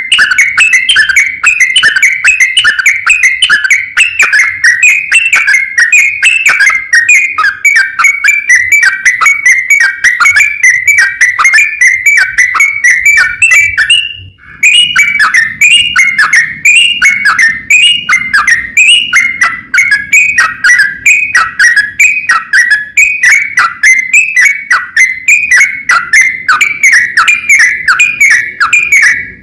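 Yellow-vented bulbul (trucukan) singing a fast, continuous chatter of whistled notes in long rapid runs, with one short break about halfway through.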